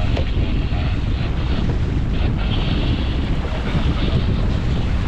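Wind buffeting the microphone aboard a sailing yacht under way, with water rushing past.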